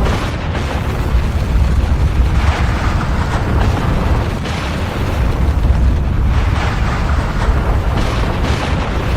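Volcanic eruption: a continuous deep rumble with irregular hissing surges every second or two.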